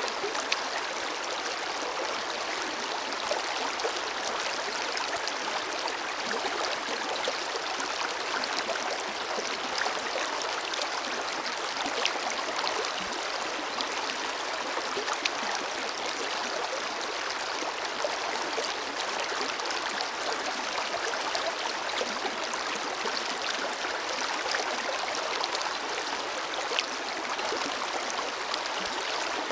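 Forest river flowing steadily over rocks: a continuous rushing of water with small splashes and trickles.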